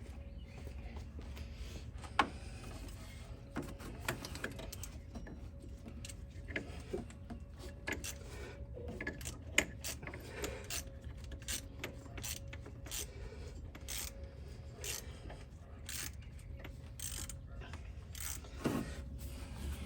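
Ratchet wrench clicking in short, irregular runs as bracket bolts are worked loose, with occasional sharper clinks of the tool on metal, over a steady low hum.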